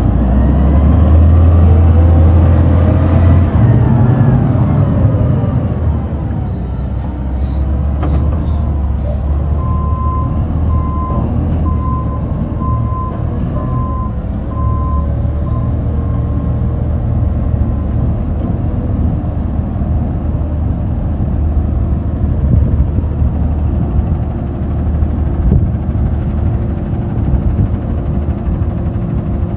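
Garbage truck engine running with a loud low rumble; a high air hiss at the start, typical of air brakes, stops after about four seconds. Partway through, a backup alarm beeps about once a second, seven times.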